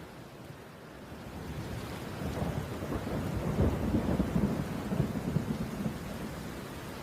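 A low, noisy rumble that starts to build about two seconds in, swells with a crackling texture, and eases off near the end.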